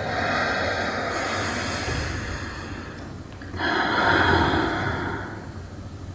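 Two long, loud human breaths: the first lasts about three seconds, and a louder second one comes a little after the halfway point and fades before the end.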